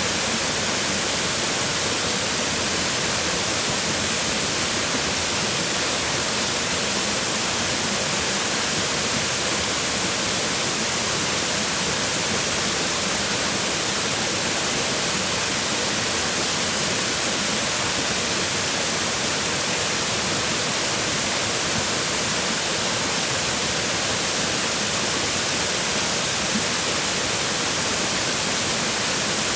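Mountain waterfall: water falling and splashing on rocks in a steady, even rush with no breaks.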